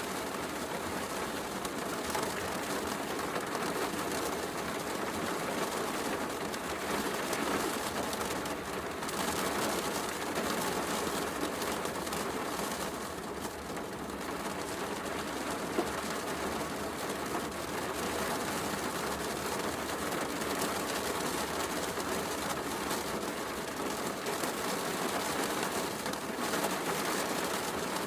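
Steady heavy rain mixed with a wood fire crackling in a fireplace, with one sharper pop from the fire about sixteen seconds in.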